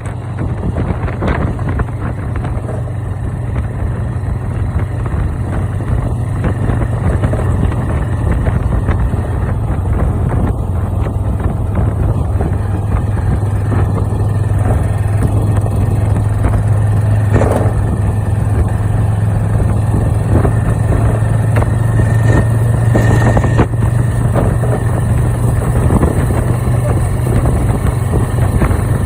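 An engine running steadily with a constant low hum under dense rushing noise.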